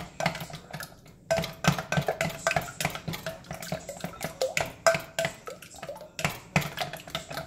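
A whisk beating eggs in a batter bowl: quick, irregular clicking and scraping of the utensil against the bowl, several strikes a second.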